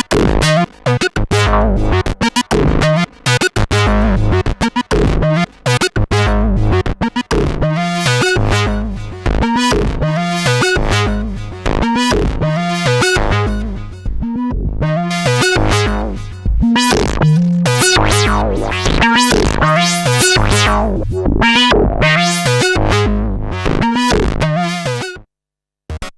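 Korg Minilogue XD hybrid analog/digital polyphonic synthesizer playing a factory preset, dry, without effects. Short, bright notes come in a steady rhythm over repeated low bass notes. The sound cuts off suddenly near the end, before the next preset starts.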